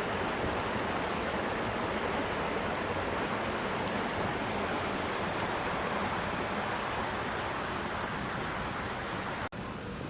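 Floodwater rushing steadily after heavy rain, an even, continuous rush of water, broken by a brief dropout near the end.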